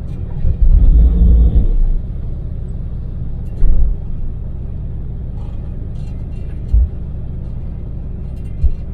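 Daewoo Damas minivan's small three-cylinder LPG engine and road noise heard from inside the cab as a steady low rumble at expressway speed. Several brief low thumps break through, the longest and loudest about a second in.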